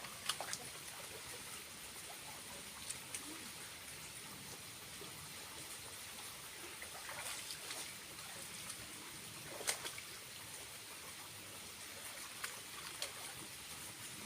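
Small waterfall running as a steady trickling hiss, with a few short splashes or drips standing out, the clearest about nine and a half seconds in.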